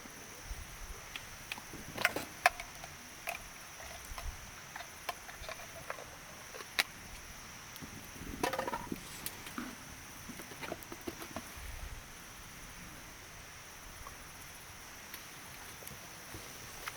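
Wood fire crackling, with scattered sharp pops, the loudest about two seconds in and near seven seconds, and a short flurry of crackle about eight and a half seconds in. A steady high-pitched drone runs underneath.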